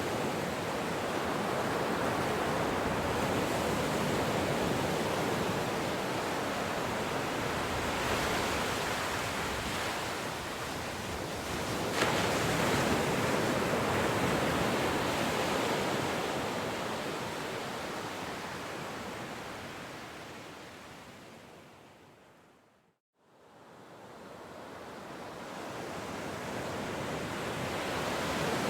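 Ocean waves washing on a shore in a steady wash of surf noise, with one brief click about twelve seconds in. The surf fades away to silence about twenty-three seconds in, then fades back up.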